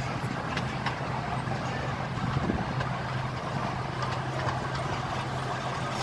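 Miniature park train running along its track: the locomotive's engine holds a steady low hum, with scattered clicks and rattles from the cars.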